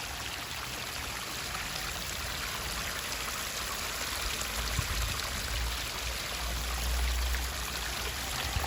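Pondless waterfall trickling and splashing softly over rocks in a steady hiss; its pump flow is throttled by a ball valve so the water falls gently. A low rumble swells in about five seconds in and fades near the end.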